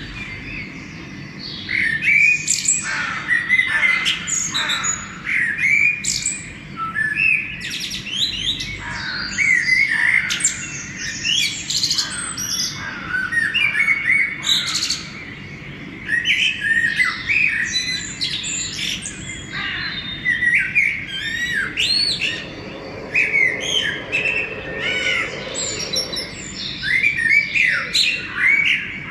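Dawn chorus of many songbirds singing and chirping at once, with overlapping short calls and trills throughout.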